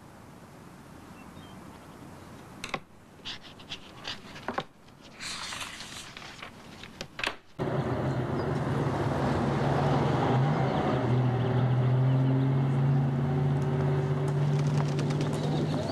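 Quiet room tone with a few scattered light taps and rustles. About halfway through it cuts abruptly to a motor vehicle's engine running steadily and much louder.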